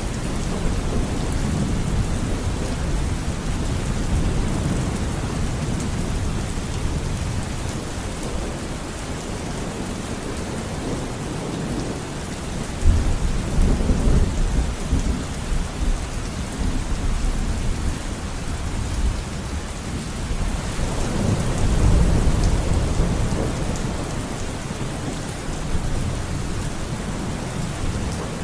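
Steady rain falling with thunder rumbling low beneath it. About halfway through a sharper thunderclap breaks in and rolls off, and a second long rumble swells up later.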